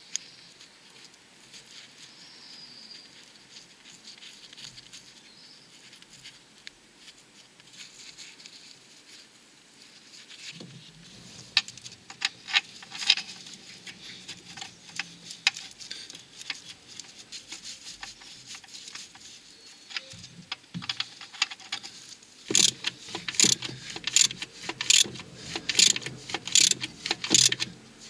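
Metal hand-tool clicks and clinks while a stud is refitted on the engine and gearbox. Scattered and faint at first, they become sharper partway through, and near the end they turn into a steady run of ratchet-wrench strokes, about two a second.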